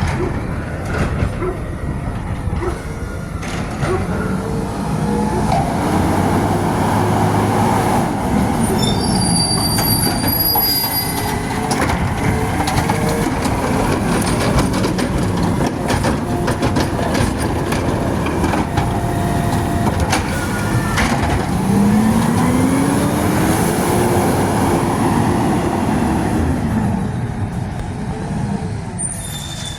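Garbage truck working a recycling pickup: its engine revs up and back down twice to drive the hydraulics, with metal knocks, clanks and high squeals from the lifting and dumping gear.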